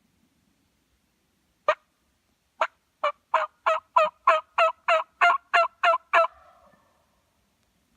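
Turkey yelping: a series of about a dozen short yelps, the first two spaced out, then a quick even run of about three a second that stops abruptly.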